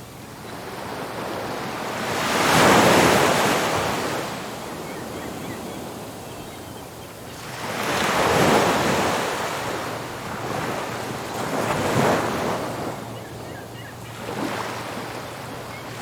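Ocean surf breaking on a beach: waves crash and wash up three times, about 3, 8.5 and 12 seconds in, each swelling and fading over a few seconds, with a steady wash of surf and wind noise on the microphone between them.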